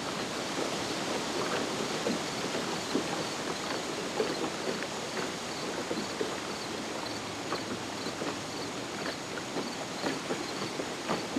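Floodwater rushing, a steady wash of noise broken by many irregular splashes and knocks.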